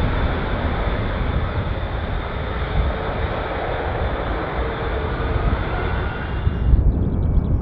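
Jet airliner's engines on landing approach: a steady rumble with a faint high whine. About six and a half seconds in, the whine and the upper hiss fall away, leaving a low rumble.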